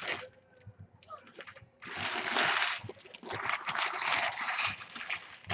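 Foil trading-card pack wrappers being torn open and crinkled, with a long burst of rustling about two seconds in and choppier rustles after it.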